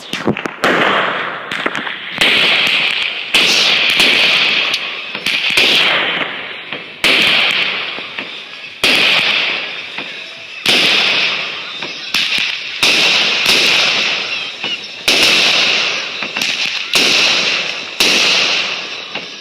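Fireworks going off in a steady series: a sharp pop about every one to two seconds, each followed by a crackling hiss that fades away before the next.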